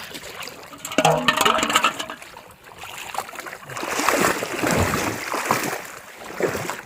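Water splashing and sloshing, loudest about a second in and again from about three to six and a half seconds in, with many short splashes.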